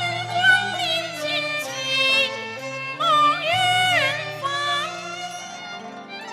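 Cantonese opera song music: an ornamented melody with sliding notes over a steady low accompaniment.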